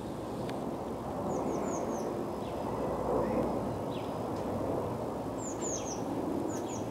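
Small songbird calling in quick runs of three or four high, thin, falling notes, one run about a second in and two more near the end, over a steady low background rush.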